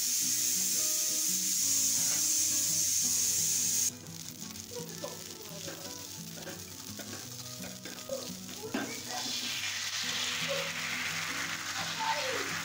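A loud steady hiss that cuts off suddenly about four seconds in. Then light scraping on a hot dosa pan, and from about nine seconds thin rice batter for neer dosa ladled onto the pan and sizzling.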